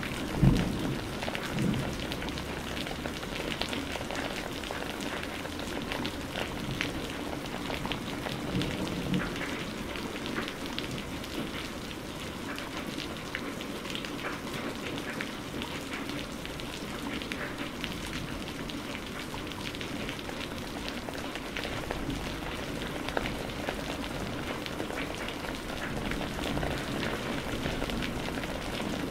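Rain falling steadily, with many separate drops ticking against a surface, and a short low thump about half a second in.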